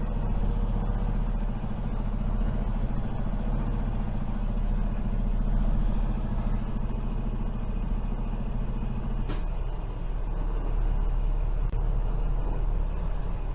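Semi truck's diesel engine running at low speed as the tractor-trailer is manoeuvred, heard from inside the cab. There is a sharp click about nine seconds in, after which the engine's hum thins, and a fainter click a couple of seconds later.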